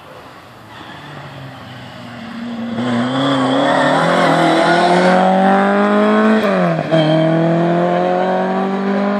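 Rally car engine approaching at full throttle, growing louder and rising steadily in pitch. About six and a half seconds in the pitch drops sharply in an upshift, then climbs again as the car keeps accelerating.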